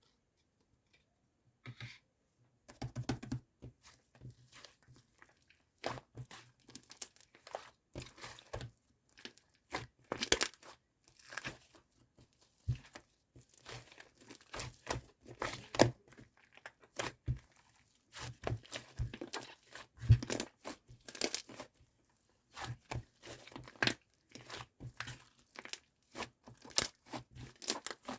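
Close-up handling noises: irregular bursts of crinkling, crackling and tearing, some louder than others, starting about two seconds in.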